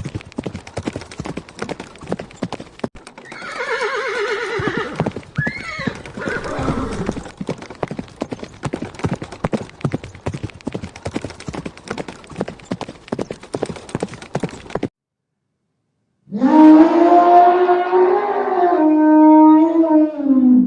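A horse's hooves clip-clopping in a quick, even beat, with a long neigh about four seconds in. The hoofbeats stop suddenly past the middle. After a short silence a different animal gives one long, low, loud call.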